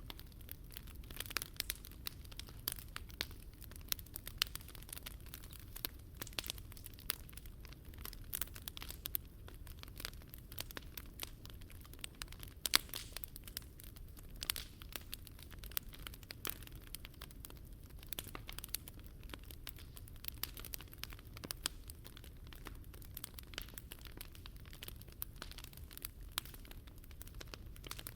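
Wood campfire burning, with dense, irregular crackles and pops and one sharper pop about halfway through, over a low steady rumble.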